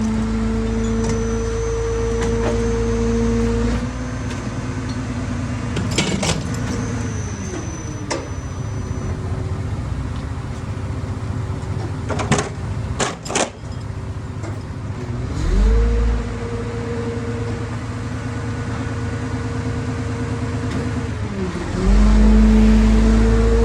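A crane truck's engine running, its speed stepping up and back down several times. There are a few sharp knocks: one about six seconds in and two close together about twelve to thirteen seconds in.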